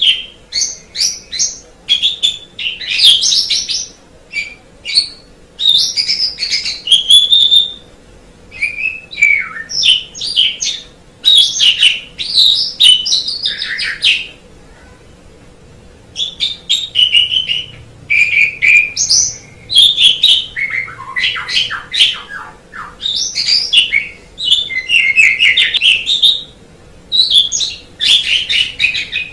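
White Asian pied starling (jalak suren putih) singing: loud, varied phrases of chirps, whistles and rattling notes in bursts of a second or two, with a pause of about two seconds midway.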